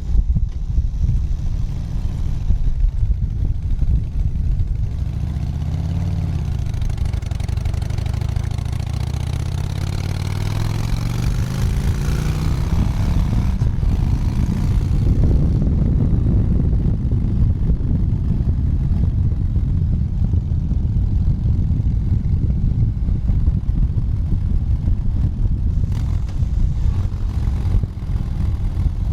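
Motorcycle engine running at road speed, mixed with wind and road noise. Partway through, the engine note climbs for several seconds.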